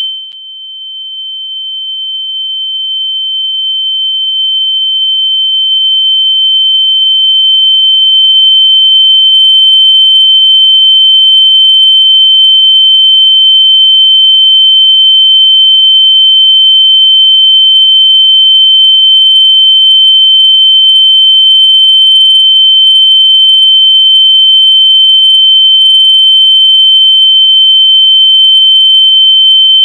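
A single steady, high-pitched electronic sine tone, played loud as a locating sound for lost AirPods. It dips sharply right at the start and swells back to full loudness over several seconds, then holds steady.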